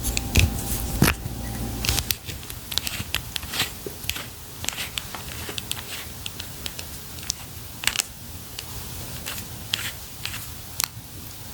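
Packaging and products handled by hand: scattered crinkles, light taps and sharp clicks, busiest in the first two seconds and sparser after.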